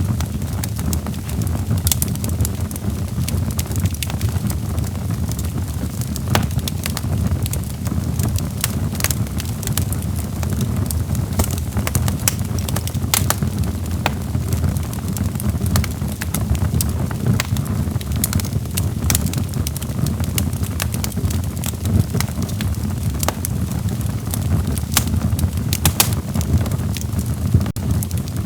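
Wood fire burning in a fireplace, with irregular sharp crackles and pops over a steady low rumble of flames.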